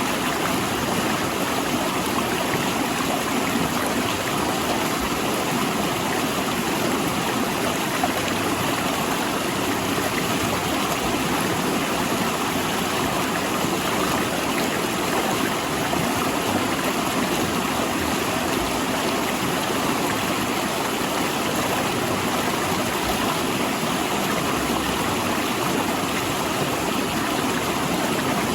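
River water rushing and splashing steadily over and between large rocks.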